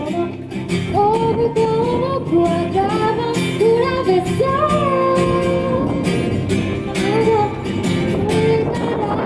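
A woman singing a song live to a strummed acoustic guitar, her voice carrying a smooth melody with long held notes.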